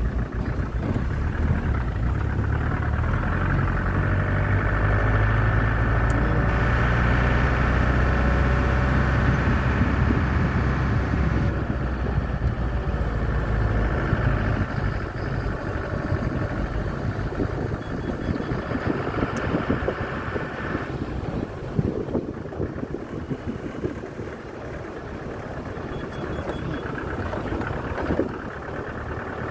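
A motor vehicle's engine running with a steady low hum, which eases about halfway through.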